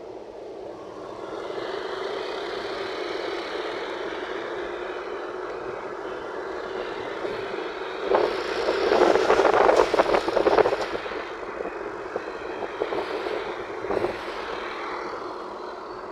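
Road vehicle noise: a steady rush, with a louder, crackling stretch about eight to eleven seconds in.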